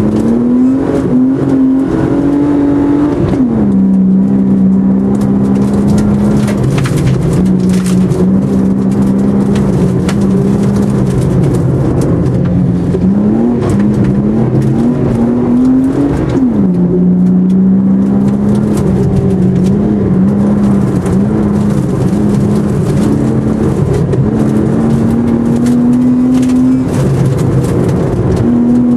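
Competition car's engine heard from inside the cabin, pulling hard under load. Its pitch climbs and drops sharply near the start and again about halfway through, then climbs slowly towards the end. Frequent knocks and clatter sound over it.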